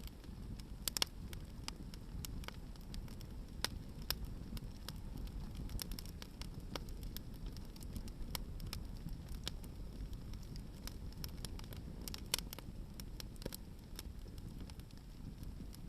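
Hardwood firewood burning in an open fire, crackling with irregular sharp snaps and pops, a few louder ones about a second in and toward the end, over a low steady rumble.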